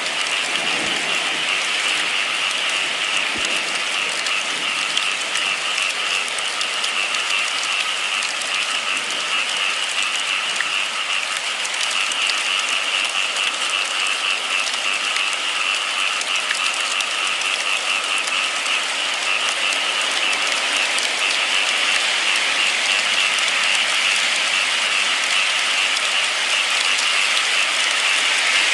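Steady rain falling, a dense unbroken hiss of drops with no change in strength.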